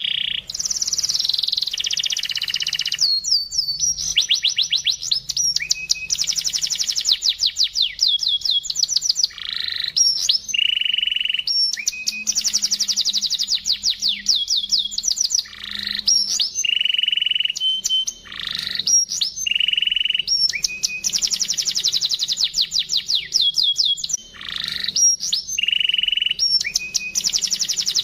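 Domestic canary singing a long, continuous song of very fast trills made of rapidly repeated notes, broken up by held, clear whistled notes. There are only brief pauses between phrases.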